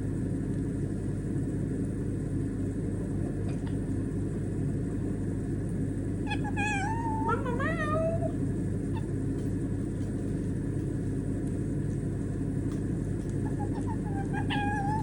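White-bellied caique giving a wavering, whiny warble that glides up and down, about six seconds in and again briefly near the end, over a steady low hum.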